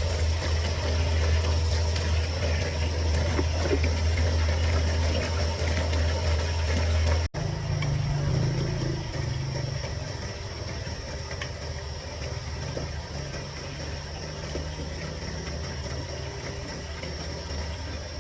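A motor running steadily with a deep hum. About seven seconds in it cuts off abruptly to a quieter mix of hiss and a weaker hum.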